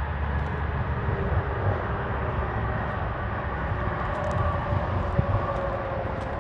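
Steady low engine rumble of distant motor noise, with a faint tone that rises slightly in the second half.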